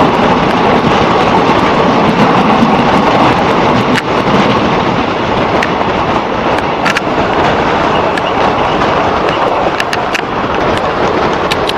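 Passenger train running, heard from on board: a steady, loud rumble of wheels on track, with a few sharp clicks from about four seconds in and more near the end.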